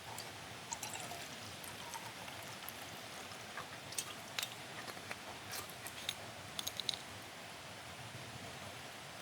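Wood fire crackling: irregular sharp pops and snaps over a steady soft hiss, busiest around the middle.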